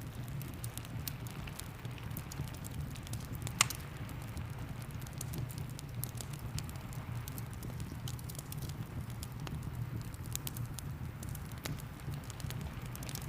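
Fireplace fire crackling with many small pops and one sharp, loud pop about three and a half seconds in, over steady rain and a low rumble.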